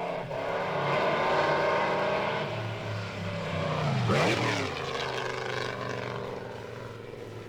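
Mercedes-Benz eight-cylinder Grand Prix car running at speed on the circuit. It passes close by about four seconds in, and its engine note drops sharply in pitch as it goes past.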